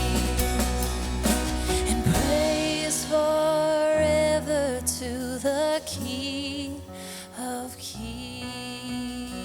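Worship band music: sustained keyboard and guitar chords with a wavering melodic line, the bass dropping away a few seconds in.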